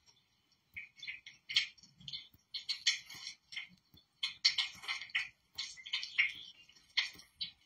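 Short bird chirps and calls in quick, irregular succession, with a few clicks, played from a bird video through a television's speakers.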